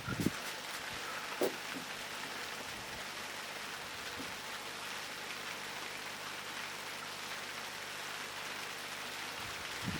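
Steady rain falling during a summer thunderstorm, an even hiss with no thunder.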